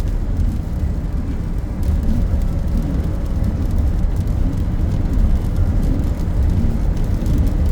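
Car cabin noise while driving: a steady low road and wind rumble, with faint clicks of raindrops hitting the car from about two seconds in.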